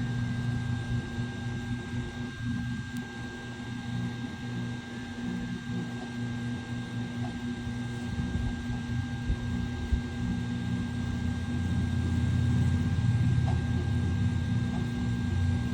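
Steady mechanical hum with a faint constant high whine, like a small electric motor running without pause.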